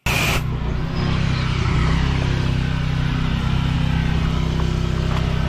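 Pressure washer running steadily: an engine hum under the hiss of the water spray, starting abruptly.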